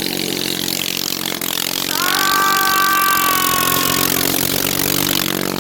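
Honda engine of a small pulling tractor running steadily under load with the brake on. About two seconds in, a high squeal rises, holds for about two seconds, then fades, likely from the rear tires spinning and burning.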